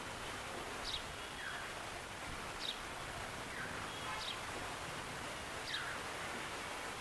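A sparrow chirping: short, sharp notes that slide downward, repeated about once every one to one and a half seconds, over a steady background hiss.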